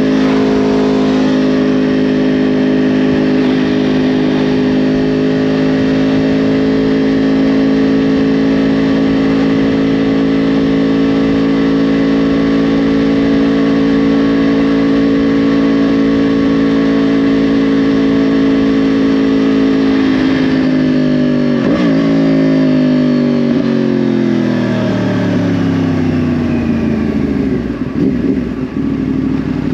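2010 Yamaha R1's crossplane-crank inline-four through a Yoshimura exhaust, held at a steady engine speed for about twenty seconds, then the revs fall away steadily over the last several seconds.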